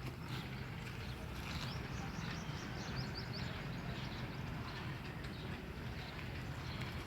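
Tractor-driven flour mill machinery running steadily: a constant low engine hum under an even mechanical rattle. A few short high chirps sound about two seconds in.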